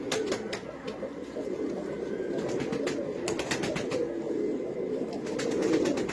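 A flock of domestic pigeons cooing together in a continuous, overlapping chorus. Scattered sharp clicks and taps come in clusters, about two to three seconds in and again near the end.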